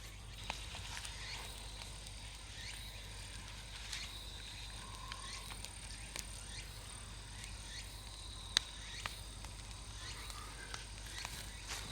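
Large wood bonfire crackling: irregular sharp pops and snaps, the loudest about eight and a half seconds in, over a low steady hum.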